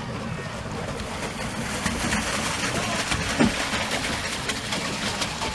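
Steady wash of water against a small pleasure boat on a pond, with fine clicks scattered throughout and a short call about three and a half seconds in.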